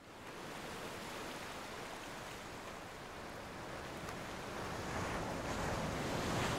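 Waves washing on a shore: a steady rushing that fades in at the start and swells a little toward the end.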